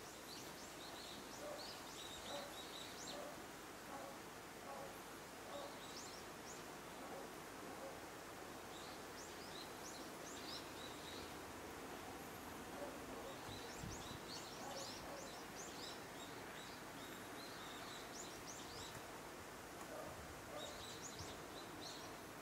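Small birds chirping on and off in short, high calls over a faint, steady outdoor hiss.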